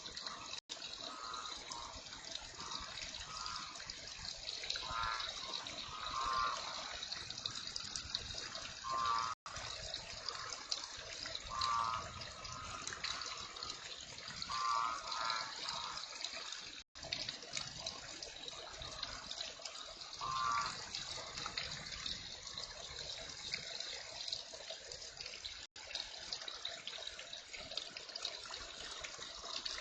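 Steady heavy rain falling, with short pulsed calls repeating every second or two over it. The sound cuts out completely for an instant four times.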